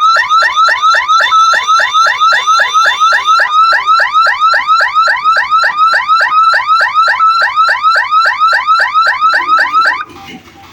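Electronic warning siren at a railway level crossing sounding a fast, repeating rising chirp, about three and a half a second, as the gate is closed for an approaching train. A steady high tone runs alongside it for the first few seconds, and the siren cuts off suddenly near the end.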